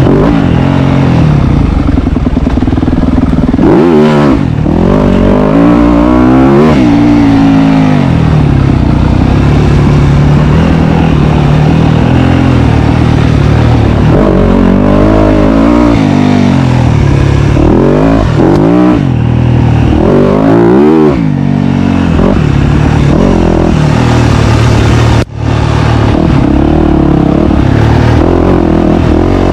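Dirt bike engine being ridden hard, revving up and falling back again and again as the throttle opens and closes. The sound breaks off for an instant near the end.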